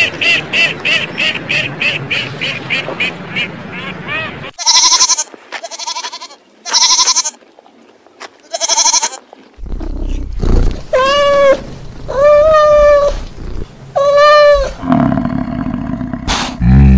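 Animal calls of several kinds in turn: a fast run of short calls about four a second, then a few short high-pitched calls, then three long wavering calls of about a second each.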